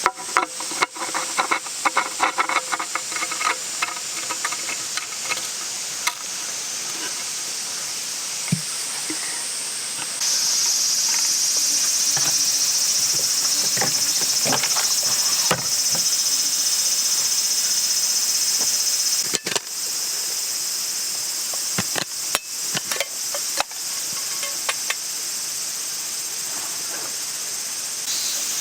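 Food sizzling in a hot pan over a campfire, a steady hiss that grows louder for a stretch in the middle, with scattered knocks and clicks of cooking utensils against the pan.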